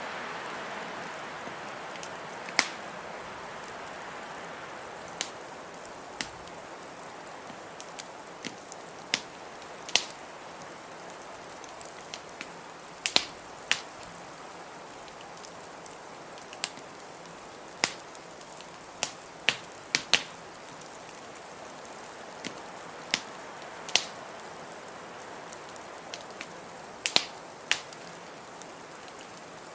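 Wood fire in a fireplace crackling: sharp, irregular pops and snaps every second or so, over a soft steady hiss that is louder for the first few seconds and then eases.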